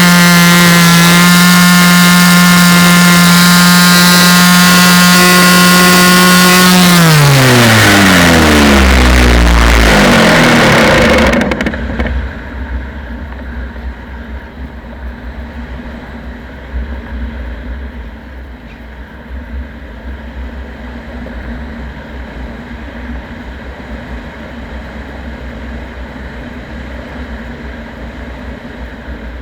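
A loud electric motor whirring at a steady speed, switched off about seven seconds in and winding down in pitch over about three seconds, then a quieter low rumble.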